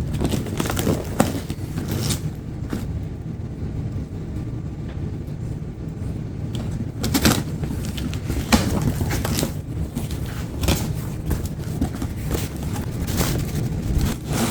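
Cardboard boxes and packaging being opened and handled, with irregular rustles and knocks as parts are taken out, over a steady low hum.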